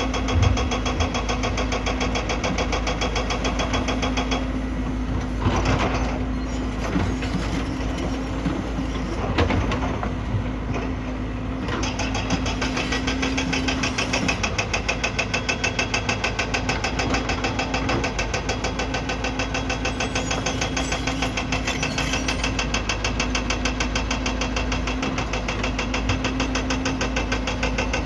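Excavator's diesel engine running steadily with an even, fast chugging beat and a steady hum. Its higher sound eases for several seconds in the middle, where a couple of brief knocks stand out.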